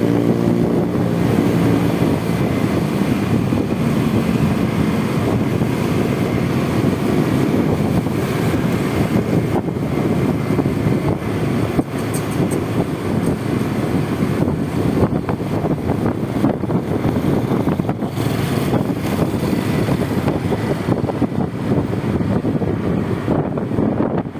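Honda Vario 125 scooter's single-cylinder engine running while riding through traffic, mixed with steady wind and road noise on the microphone.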